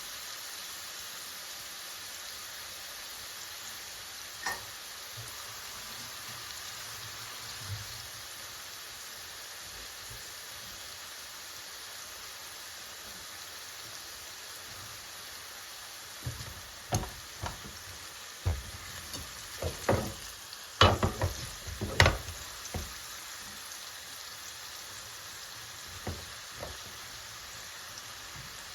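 Food sizzling steadily in a pan or pot while it is being stirred. A run of knocks and clatters from utensils comes about two-thirds of the way through.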